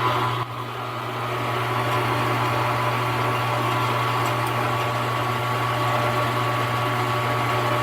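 Milling machine spindle motor running steadily with a low hum and a faint whine, turning a wiggler edge finder while it is set to run true. It comes up to a steady level over the first couple of seconds.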